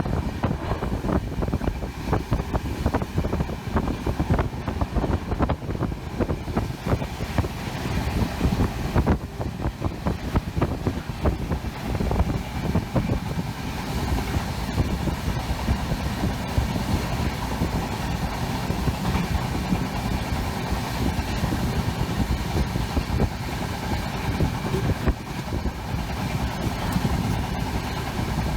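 Passenger train running on the track: a steady low rumble with constant quick rattling and clatter.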